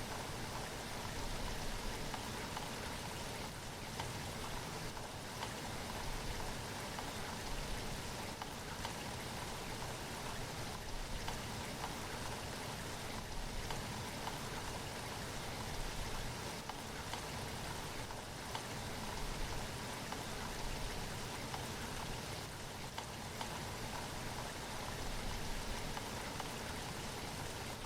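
Steady rain falling, a constant hiss dotted with small drops pattering on a surface.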